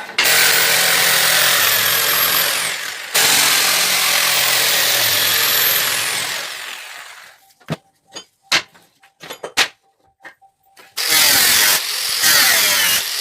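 Electric power tool working wood: it runs loudly with a high whine, cuts out about three seconds in, then runs again and winds down. A few sharp knocks follow, and the tool starts up again near the end.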